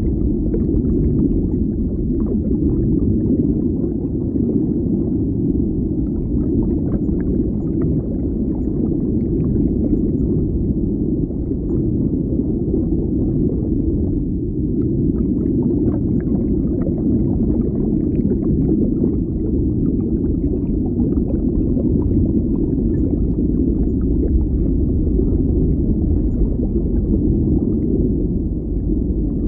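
Underwater ambience: a steady, low, muffled wash of water, with faint scattered ticks above it.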